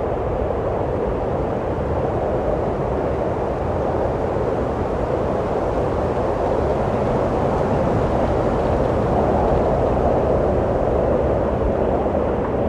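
Steady wind blowing, a low rushing that swells a little about two-thirds of the way through.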